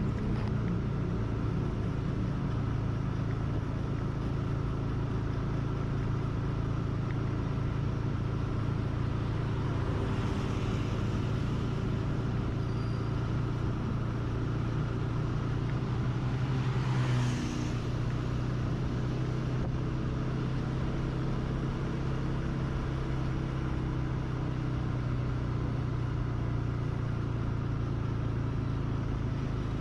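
Engine of the ridden vehicle running steadily at cruising speed, with road and wind noise. About two-thirds of the way through, another vehicle swishes past and the engine note shifts slightly.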